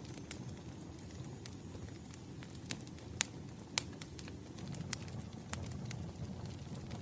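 Wood campfire crackling: irregular sharp pops and snaps over a steady low rumble of burning logs, with two louder pops around the middle.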